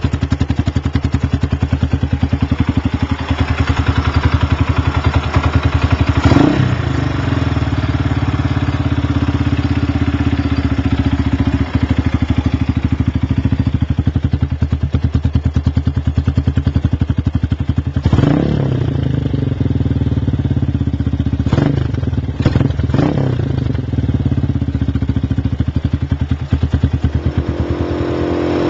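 Lifan LF200-B motorcycle's single-cylinder engine idling through its aftermarket Iridium exhaust, with four quick throttle blips that rise and drop straight back: one about six seconds in, then three close together between about 18 and 23 seconds.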